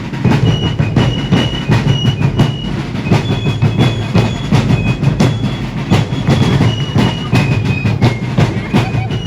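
Parade fife and drum corps playing: rapid, dense drumming with a high, shrill fife melody of short stepped notes above it.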